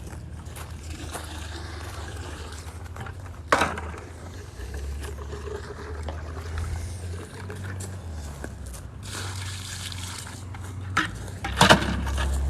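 Water from an outdoor spigot running into a paint bucket as it is rinsed out, with a sharp knock of the bucket about three and a half seconds in and a couple more near the end.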